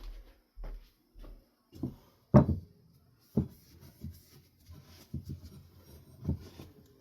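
Ceiling fan parts being handled and cleaned by hand: irregular knocks and rubbing, the loudest knock about two and a half seconds in.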